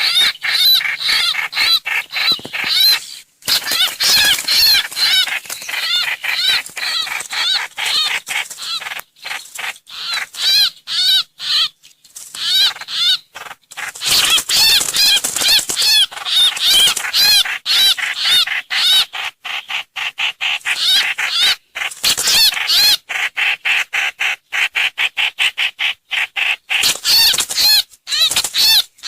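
Songbird known in Vietnamese as trao trảo (hoành hoạch) calling over and over in quick, chattering runs of short arching chirps with brief pauses between runs. This is a lure recording played to attract the bird.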